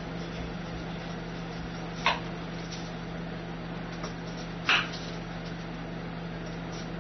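Steady mechanical hum of a kitchen appliance, broken twice by a short, sharp clatter, once about two seconds in and again near five seconds.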